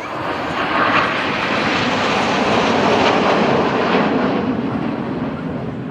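Aircraft flying past: a loud roar that swells in the first second, holds its peak for a few seconds, then fades as its pitch falls away.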